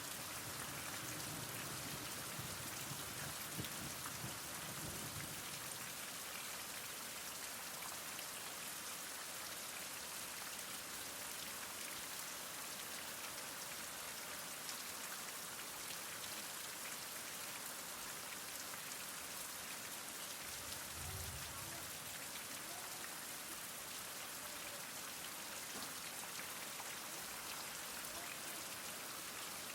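Heavy rain falling steadily: a dense, even hiss of drops, with faint low rumbles in the first few seconds and again about two-thirds of the way through.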